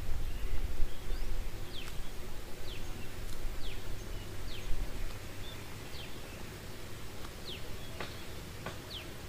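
A bird calling over and over: short, high notes sliding downward, about one a second. A steady low rumble runs underneath, and a few sharp clicks come near the end.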